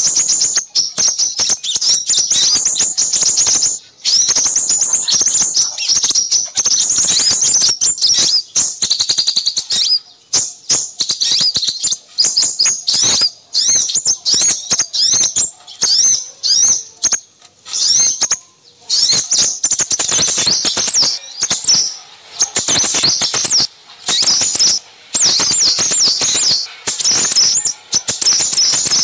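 Many small birds chirping and twittering at once in fast, high-pitched runs of notes with only short breaks: a busy small-bird chorus played as a lure call for crimson sunbirds.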